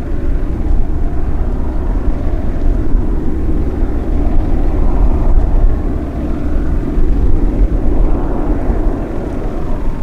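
Jet engines of a Japan Airlines Boeing 767-300 airliner running, a loud steady rumble with a wash of noise that swells a little in the middle and again near the end.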